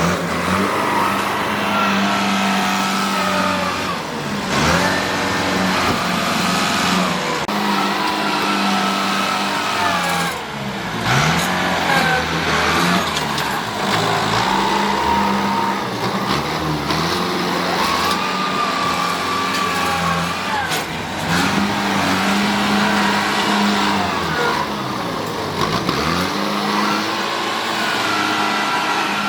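A vehicle's motor running. Its pitch holds steady, then dips and climbs back up again every few seconds, as if the load were changing.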